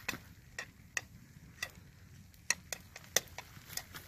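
Wood fire crackling, with sharp, irregular pops from the burning firewood, about two a second.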